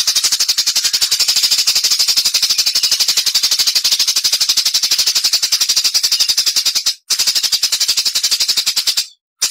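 Recorded songbird giving a very fast run of sharp, evenly repeated high notes, the rapid 'tembakan' (machine-gun) style used in bird-song training tracks, broken by a short pause about seven seconds in and another just before the end.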